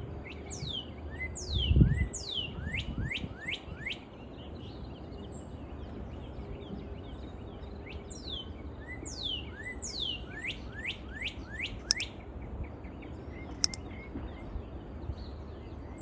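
Songbird singing, identified as a chốc mào lửa: two runs of quick whistles, each sweeping steeply down in pitch, about seven notes to a run, one at the start and one from about eight seconds in. A low thump comes about two seconds in, and two sharp clicks come near the end.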